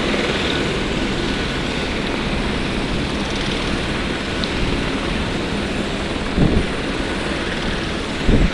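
Aircraft engine running with a steady drone.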